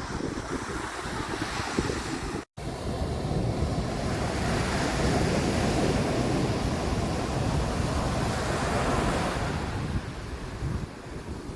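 Wind buffeting the microphone over surf washing on a beach, a steady rushing noise with heavy low rumble. The sound drops out completely for a moment about two and a half seconds in.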